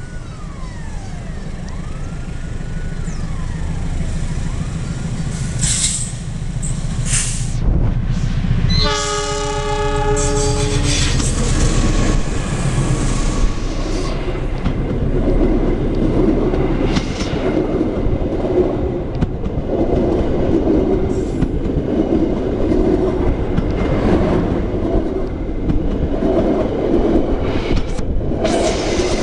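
Passenger train approaching and passing close by on the track: a rising rumble, the locomotive's horn sounding once for about two seconds around nine seconds in, then the long train of coaches passing close with a steady rumble and wheels clattering over the rail joints. A wailing siren-like warning tone sounds in the first few seconds.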